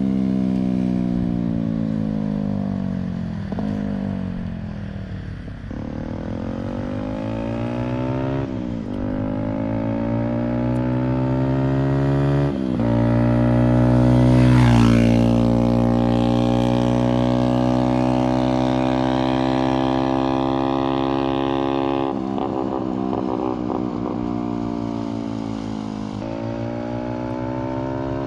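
Benelli TNT 125's single-cylinder 125cc four-stroke engine running loud through a decat down-pipe exhaust. Engine speed sags and then jumps back up several times as the bike is ridden through the revs, and it swells loudest about halfway through before holding a steadier pitch.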